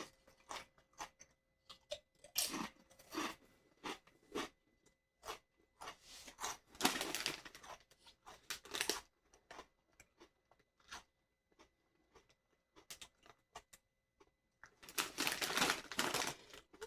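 Close-up crunching and chewing of thick, kettle-style Sabritas Flamin' Hot potato chips: irregular short crunches, with denser spells of chewing about two seconds in, midway and near the end.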